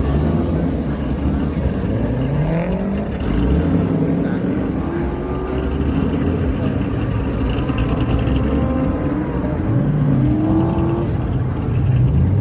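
Several car engines revving, their pitch rising and falling repeatedly over a steady low rumble of engine noise.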